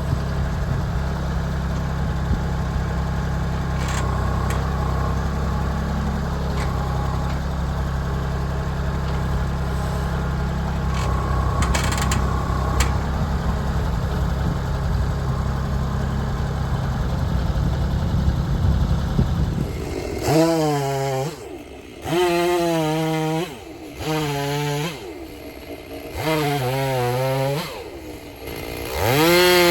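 Tractor engine running steadily for about twenty seconds, then a Stihl MS-290 chainsaw converted to MS-390 spec revving up and dropping back in about five short surges, the last running on.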